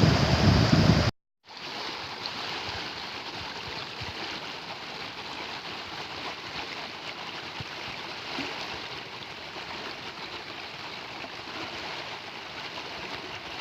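Rain falling, an even, steady hiss. In the first second it is louder with a low rumble of wind on the microphone, then it cuts off briefly and resumes more softly.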